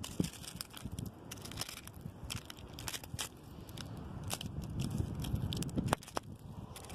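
Strong wind gusting through tree branches, with a low rumble that builds toward the end and many sharp clicks and crackles throughout.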